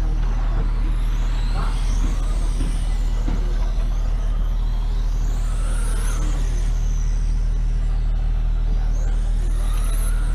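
Racing motorcycle engine running on track, its pitch climbing and dropping several times as the revs rise and fall, over a steady low rumble.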